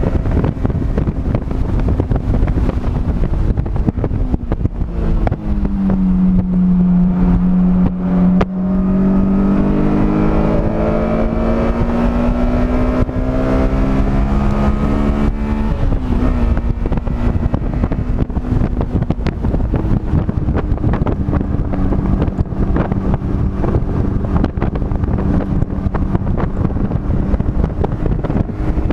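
A car engine lapping a race track under constant rumble and wind noise. Its note drops about five seconds in, then climbs slowly for about ten seconds before changing abruptly, and runs steadily after that.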